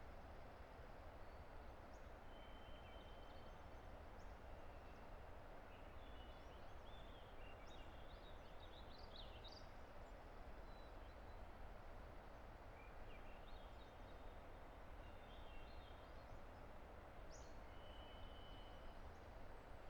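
Faint, steady rush of a distant river, with scattered birdsong over it: short high chirps and brief whistled notes, some coming in quick clusters.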